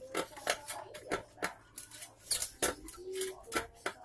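Irregular sharp metallic clicks and taps with brief ringing, from hand work on a steel motorcycle muffler shell.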